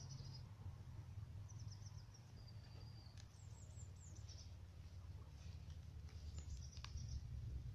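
Faint, high bird chirps in short runs every second or two, over a steady low rumble of background noise.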